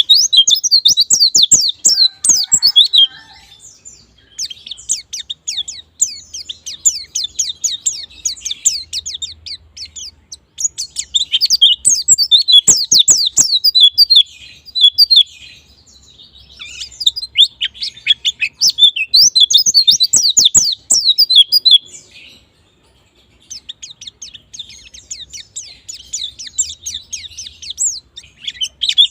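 A white-eye (pleci) singing a fast, high, chattering song of rapid chirps and trills, in long bursts broken by short pauses, with a longer pause near the end.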